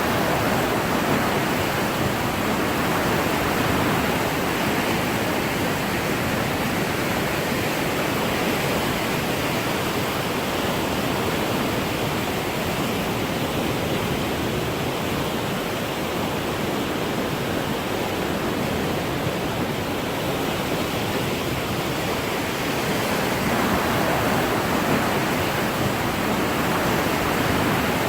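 Rushing floodwater: a steady roar of fast, high river water, swelling a little near the end.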